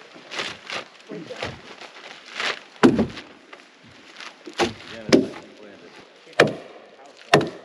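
A series of irregular knocks and thuds, five or so sharp ones spread over several seconds, like tools or materials being handled and set down.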